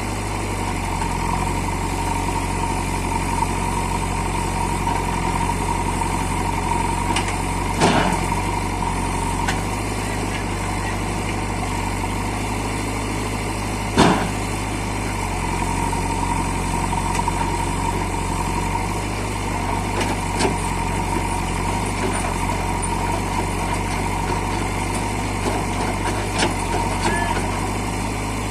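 Tractor diesel engine idling steadily, with a couple of sharp knocks about eight and fourteen seconds in.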